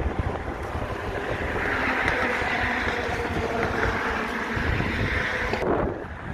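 Wind buffeting the microphone, a steady rumbling rush that drops away suddenly near the end.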